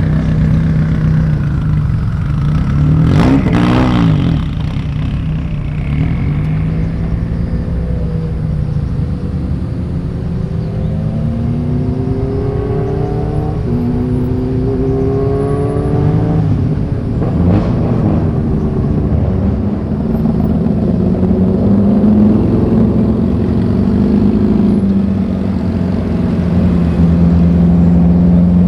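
Car engines running as cars drive out one after another. Two cars pass close by, about three seconds in and again past the middle. Between them, one engine speeds up in a rising pitch, stepping up several times.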